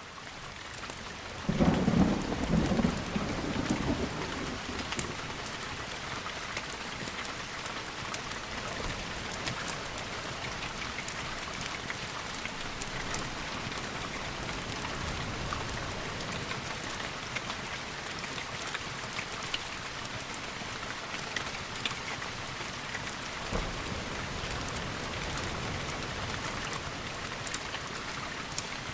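Steady heavy rain fading in, with a roll of thunder rumbling about two seconds in, then an even patter of rain.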